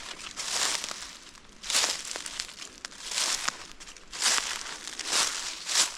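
Footsteps crunching through dry leaf litter, about six steps at roughly one a second.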